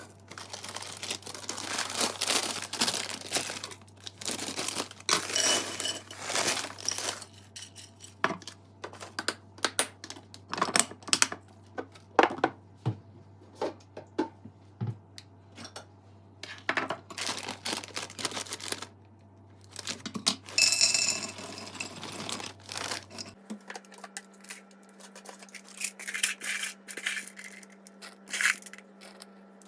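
Irregular crinkling and rustling of something being handled, in many short crackly strokes. A steady low hum runs underneath and shifts to a higher hum about 23 seconds in.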